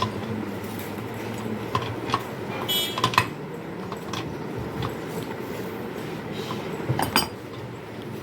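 Scattered light clicks and knocks, with a short metallic ring just before three seconds in, over a steady low rumble.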